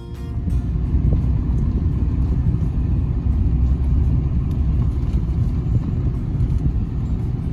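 Loud low rumble, starting abruptly and holding steady, of the kind a moving vehicle makes.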